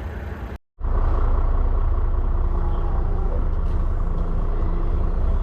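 Semi truck's diesel engine running steadily, a deep continuous rumble. The sound cuts out completely for a moment just under a second in, then the rumble resumes.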